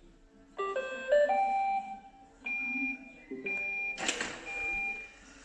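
iRobot Roomba robot vacuum playing its electronic start-up tune of stepped tones, followed by repeated beeps; about four seconds in its suction motor starts with a sudden rush of noise.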